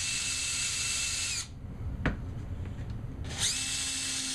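Electric drill fitted with a screwdriver bit running in two trigger pulls, driving a screw through a bottle cap into a wooden handle. Each run whines up to speed, holds steady and winds down, with a single sharp click about two seconds in.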